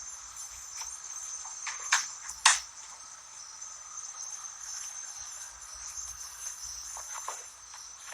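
Steady high-pitched insect chirring, with two sharp clicks about half a second apart, around two seconds in.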